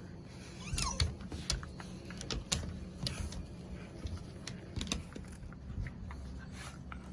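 Irregular light clicks and taps, as of dogs moving about on a hard floor, with a brief faint rising squeak about a second in.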